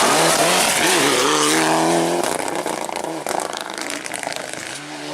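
Rally car at full throttle passing close by. The engine note dips and climbs again about a second in, holds, then fades away after about two seconds.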